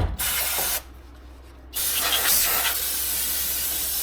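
Aerosol cleaner spray hissing in bursts onto the steering knuckle's bearing bore to clean it out: a short spurt with a low thump at the start, one just under a second long, then a long steady spray from a little under two seconds in.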